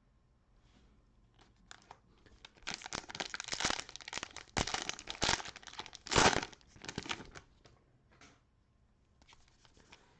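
Plastic cellophane wrapper of a trading-card cello pack being torn open and crinkled: a run of crackling rustles that starts a couple of seconds in and dies away a couple of seconds before the end, loudest about six seconds in.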